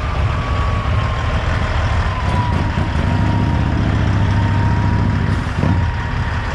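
Heavy truck's diesel engine running with a steady low rumble that swells a little in the middle, over a thin steady whine that slowly drops in pitch.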